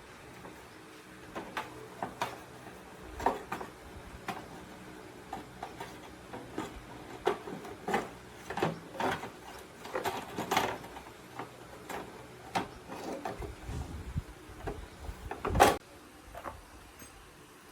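Irregular light clicks and knocks, with one louder knock about three-quarters of the way through.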